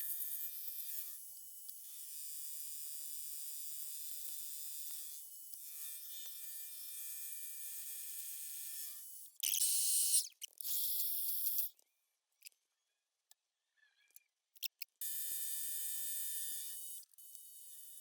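Machine tool running, a steady high motor whine and hiss while a small stainless steel block is squared up, in several clips that start and stop abruptly. There is a quiet stretch with a few light clicks in the middle.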